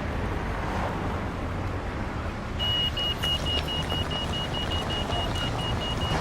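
Road traffic running at a city pedestrian crossing. About two and a half seconds in, a high electronic beep starts repeating rapidly and evenly, typical of a crossing signal telling pedestrians the lights have stopped the traffic.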